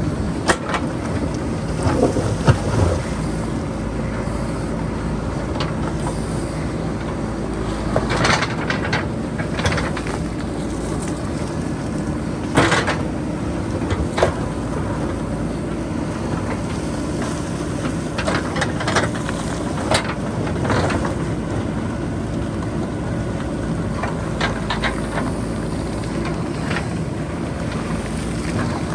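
JCB backhoe loader's diesel engine running steadily under load, with sharp clanks and scrapes every few seconds as the bucket works against rock and boulders.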